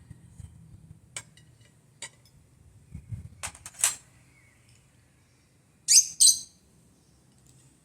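A few light clicks and clinks, then about six seconds in a bird gives two loud, quick, rising chirps close together.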